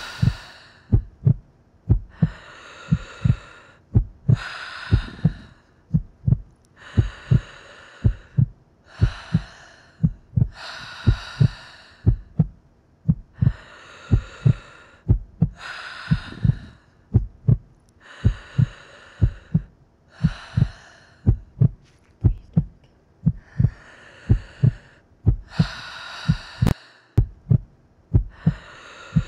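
A heartbeat thumping in steady lub-dub pairs, with loud breathing in and out about every two seconds.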